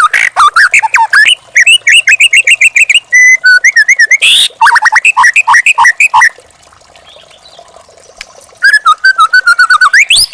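White-rumped shama (murai batu) song: loud, varied phrases of fast repeated whistled notes. About six seconds in the song stops for roughly two seconds, then resumes with another rapid run of notes.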